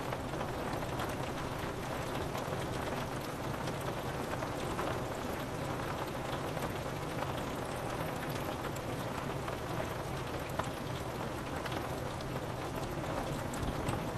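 Steady rain falling on window glass: an even hiss with many small drops ticking against the pane.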